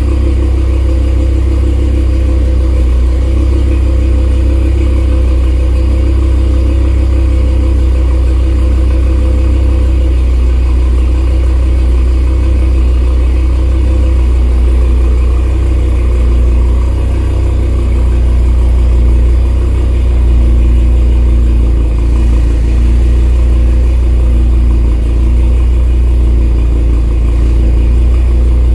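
Heavily built 2018 Audi RS3's turbocharged 2.5-litre five-cylinder engine, tuned to about 1000 hp, idling steadily after a cold start, its sound strongest in the deep bass.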